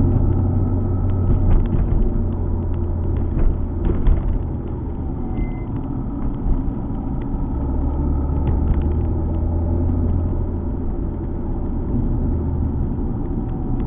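Alfa Romeo 147 GTA's 3.2-litre V6 running on the move, with tyre and road rumble: a low drone that dips a few seconds in and swells again past the middle, with a few small knocks.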